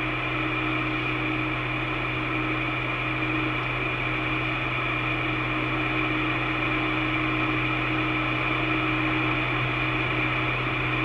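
Steady hiss and low hum of a two-way radio recording between transmissions, with no voice on the channel.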